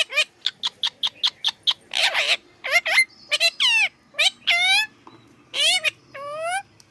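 A parrot calling: a quick run of short, high chirps, about four or five a second, then a handful of longer calls whose pitch sweeps and bends, with gaps between them.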